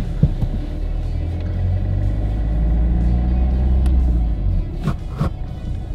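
Car engine heard from inside the cabin as the car pulls away. A low rumble builds for about three seconds and then drops off about four seconds in.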